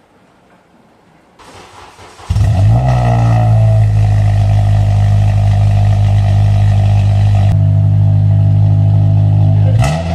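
Honda Accord cranking over and catching about two seconds in, then running at a loud, steady idle through a cheap eBay axle-back exhaust with no resonator; a short blip of the throttle near the end.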